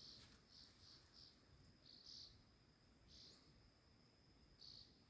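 Faint outdoor nature ambience: a steady high insect trill that swells in short pulses, and a short high falling bird whistle heard twice, about three seconds apart.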